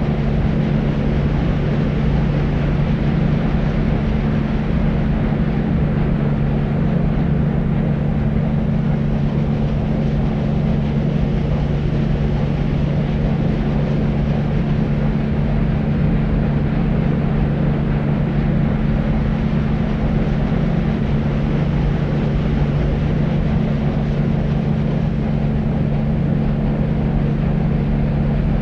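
Steady deep white noise: an even, unchanging hiss weighted heavily toward the low end, with a strong low hum band and little treble.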